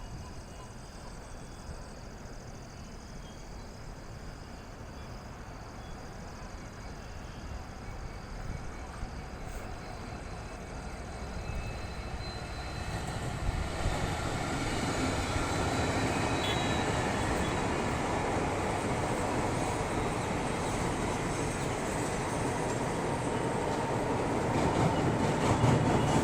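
Nagercoil Express passenger train approaching and passing on the track: the rolling rail noise grows louder through the first half, then holds steady as the train goes by.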